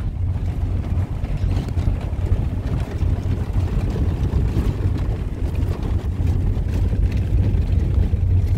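Steady low rumble of a vehicle in motion, with road and engine noise and no distinct events.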